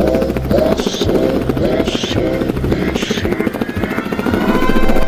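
Beatboxer's vocal imitation of a helicopter: a fast, even flutter of the lips and voice, with a hissing sweep about once a second. Rising tones come in over the last second and a half.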